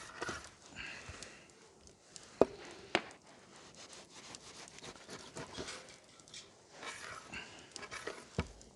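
Knife slicing pork foreleg on a wooden cutting board, with scraping and rubbing strokes and two sharp knocks about half a second apart a few seconds in.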